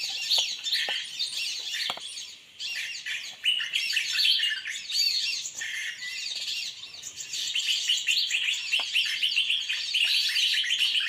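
Small birds chirping and twittering in a dense chorus, many quick overlapping notes without a break.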